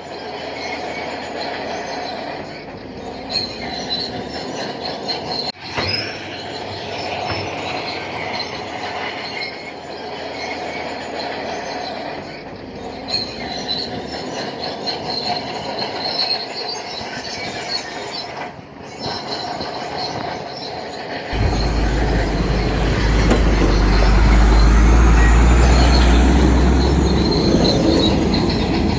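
Crawler bulldozer's steel tracks squealing and clanking as the machine moves, with its diesel engine running. About 21 seconds in a deep low rumble comes in and the sound grows louder.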